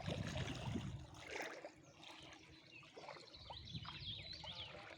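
Water splashing and sloshing, louder in the first second, then quieter lapping with a few faint bird chirps.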